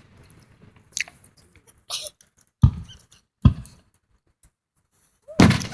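Aerial firework shells bursting: a series of separate sharp bangs, the two loudest a little under a second apart in the middle, with quiet gaps between.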